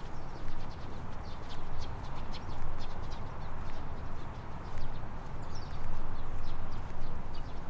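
Outdoor ambience: many short, high chirps and clicks come in quick, irregular succession over a steady low rumble.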